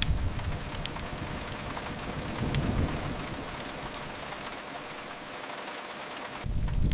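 Steady hiss of rain with occasional sharp crackles and pops from a wood fire. A low rumble dies away in the first moment and swells briefly again near the middle.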